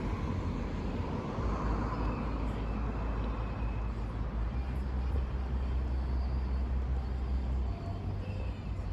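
Road traffic passing, with a heavy, uneven low rumble.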